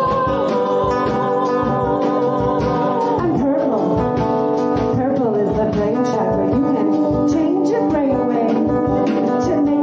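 Live music with guitar and a wavering melodic line over a steady beat.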